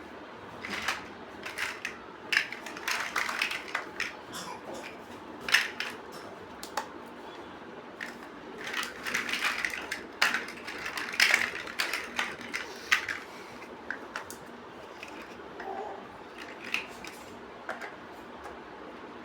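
Plastic building bricks clicking and rattling as pieces are handled and pressed together, in irregular clusters of sharp clicks over a faint steady hiss.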